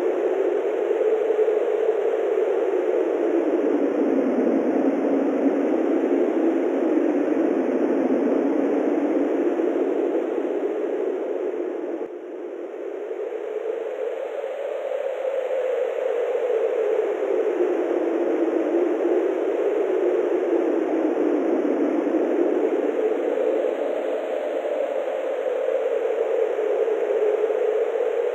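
Wind blowing steadily over open grassland, a rushing sound whose pitch slowly rises and falls as the gusts build and ease, dropping off briefly about twelve seconds in before picking up again.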